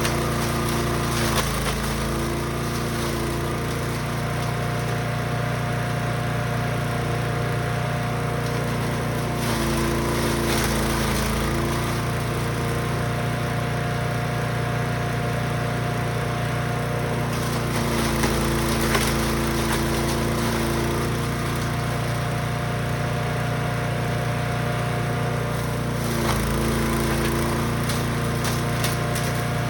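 Brush Master 3-in-1 wood chipper/shredder's gas engine running steadily. Four times, about every eight seconds, its pitch dips briefly under load with a burst of crackling as material is fed through and chipped.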